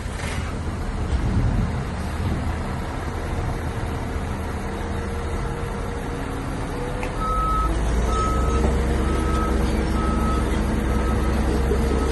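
Diesel engine of heavy earthmoving equipment running. About seven seconds in the engine grows louder and a reversing alarm starts, a run of evenly spaced beeps.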